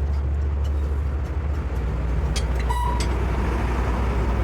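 A heavy engine idling steadily with a deep, even hum. A few light metal clicks sound, and a short high squeak comes about three seconds in.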